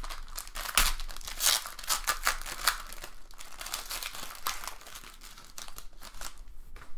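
Trading card pack wrappers being torn open and crinkled by hand, an irregular run of crackling and tearing that thins out near the end.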